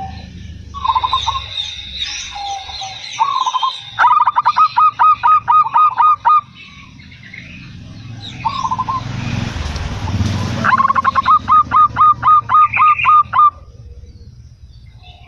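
Zebra dove (perkutut) calling: short single coos, then two runs of rapid repeated notes, about five a second, each lasting two to three seconds. A thin high whistle from another bird sounds in the first few seconds.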